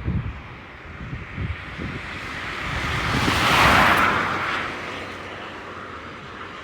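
Jet airliner passing close by, its engine noise swelling to a loud peak about four seconds in and then fading. Wind buffets the microphone near the start.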